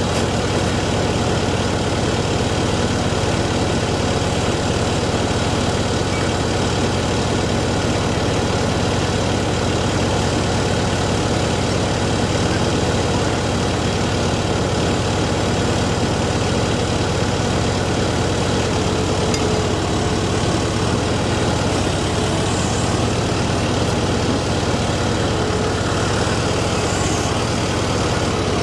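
A heavy engine idling steadily and without change, a constant low hum with a steady hiss over it.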